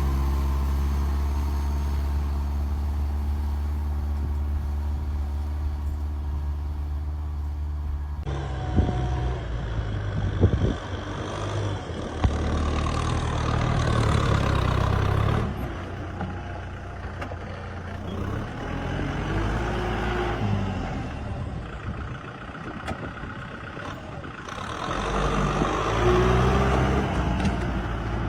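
Tractor engine running steadily. About eight seconds in the sound changes abruptly to a rougher engine noise that rises and falls, with a few sharp knocks soon after.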